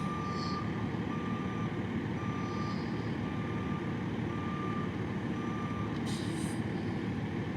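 Truck's backup alarm beeping about once a second, six beeps in all, stopping a little past halfway, over a steady diesel engine rumble: the truck is reversing.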